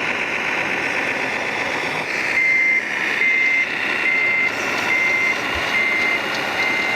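An RC model truck's sound module sounding a reversing beeper: a single-pitched beep repeating a little more than once a second, starting about two seconds in, after a rough steady buzz.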